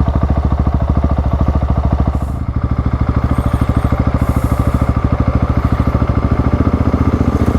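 Single-cylinder dirt-bike engine running with a steady, rapid pulsing beat; its note changes about two seconds in.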